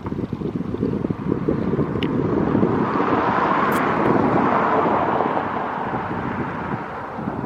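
Wind buffeting the microphone in an outdoor field recording, with a broad rushing noise that swells to a peak about halfway through and then fades.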